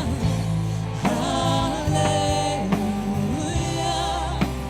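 Worship band playing a gospel praise song, with held sung notes over a steady bass line and a regular drumbeat. A sung "hallelujah" comes in near the end.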